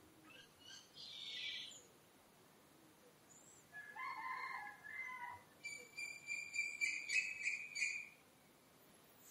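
Birds calling: a short high call about a second in, a drawn-out call lasting over a second at about four seconds, then a quick run of high, repeated chirping notes for a couple of seconds.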